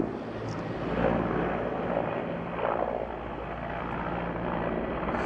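Firefighting helicopter's engine and rotor running, a steady low drone.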